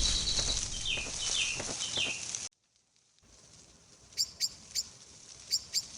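A loud noisy stretch with short, falling chirps that cuts off suddenly about two and a half seconds in. After a brief silence come soft forest sounds with sharp, high bird chirps in quick groups of two and three.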